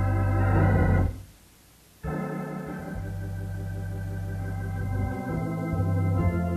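Organ holding sustained chords, cutting out for about a second just after the start, then coming back in.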